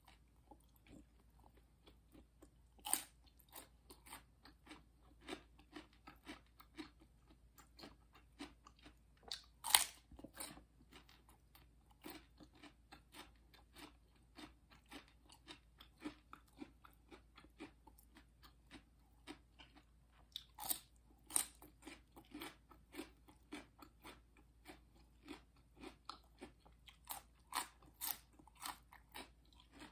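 A person chewing crunchy food close to the microphone, with steady chewing about twice a second and louder, sharper crunching bites a few times, the loudest about ten seconds in.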